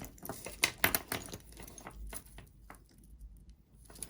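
Jewelry being handled and set down on a table, a run of light clicks and taps. They are close together in the first second and a half, then sparser.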